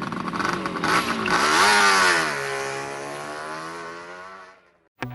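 Small motorcycle engine running hard, its pitch dipping and then rising about a second in, then falling and levelling off as it eases off, and fading out near the end.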